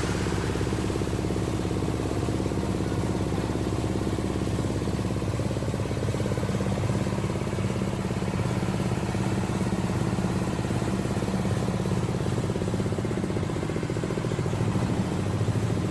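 Small engine driving a multipurpose chopper-grinder machine, running steadily with an even hum.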